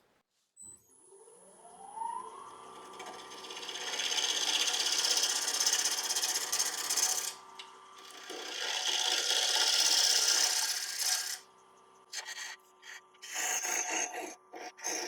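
Wood lathe spinning up with a rising whine that settles into a steady hum, then a turning tool cutting a wet mulberry bowl blank in two long rasping passes, followed by shorter broken cuts near the end.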